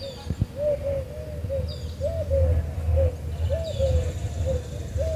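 A dove cooing: a long run of short, soft coos, each rising and falling, coming in twos and threes, with a few faint high chirps of small birds over a steady low rumble.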